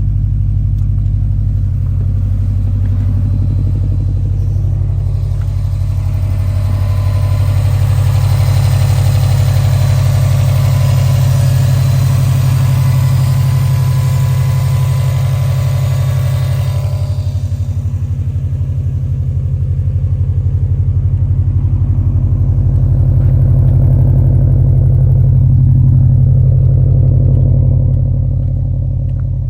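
Straight-piped, catless Subaru STI turbocharged flat-four running at idle, a steady low exhaust note. For about ten seconds in the middle it gets louder and harsher.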